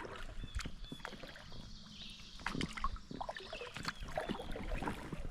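Kayak paddle strokes in calm water: the blade dipping and dripping, with small irregular splashes.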